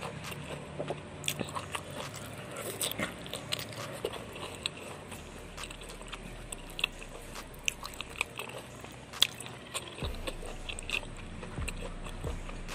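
Close-up crunching and chewing of raw vegetables dipped in sambal, with irregular sharp crunches as each bite is taken.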